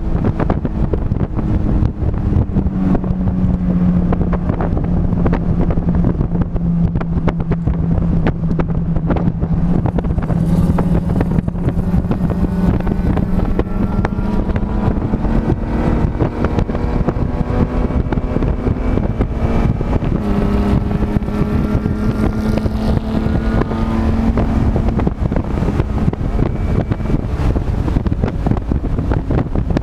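A vehicle engine running hard at speed on a race track, its pitch sagging and climbing slowly with the throttle and stepping up about two-thirds of the way through. Heavy wind noise on the microphone runs over it.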